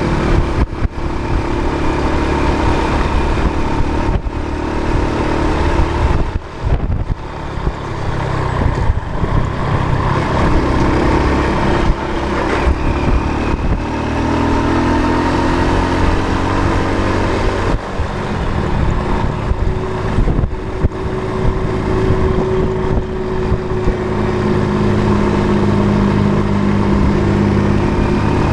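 A motor vehicle's engine running while under way, over steady road and wind noise. Its note climbs and levels off a couple of times as it speeds up, with a few brief dips in level early on.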